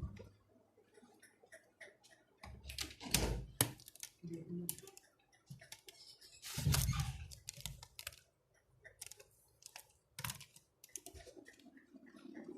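Irregular clicks, taps and knocks of objects being handled, with two louder clattering bursts, about three seconds in and again near the middle.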